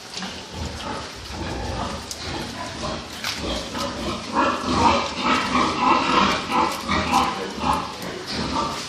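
Pigs grunting, becoming a run of louder, quickly repeated calls from about halfway through.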